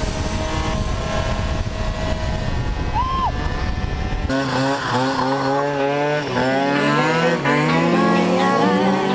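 Small motorcycle or scooter engines revving up and dropping back again and again. They start after an abrupt edit cut about four seconds in, before which there is a dense mix of engine noise.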